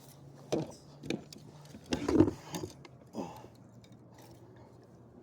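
Fishing rod and reel being handled, with scattered clicks and knocks and a heavier thump about two seconds in, as line wrapped around the rod guides is worked free during a fight with a big fish.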